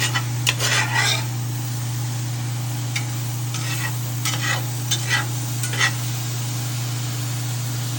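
A spoon stirring a mushroom, cream and white-wine sauce as it sizzles and reduces in a pan, with short runs of scraping and clinking against the pan. A steady low hum runs underneath.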